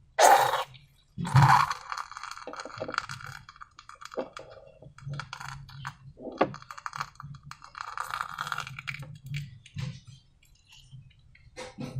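Hands handling slime-making materials: irregular small clicks, clinks and crackles, with two louder noisy bursts in the first second and a half.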